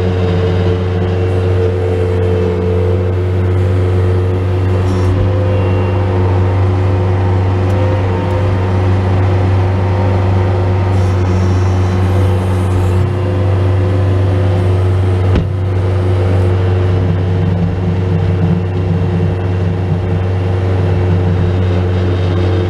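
Bobcat S185 skid steer's diesel engine running steadily under load while plowing snow, with a steady hum and a single short click about fifteen seconds in.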